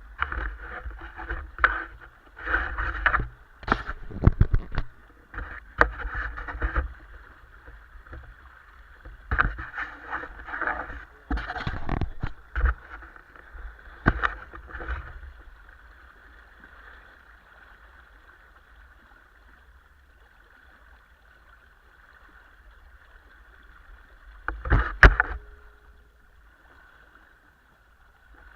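Water splashing and rushing against the hull of a small sailing dinghy under way, coming in irregular surges. It quietens down for a while, then one sharp, loud splash comes near the end.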